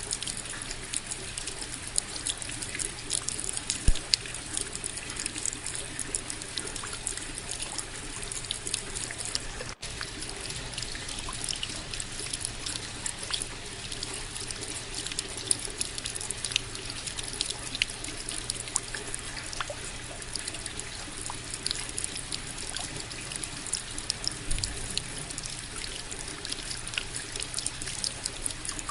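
Steady rain, with many close individual drops ticking against a continuous wash of falling and trickling water. There is a brief dropout about a third of the way in.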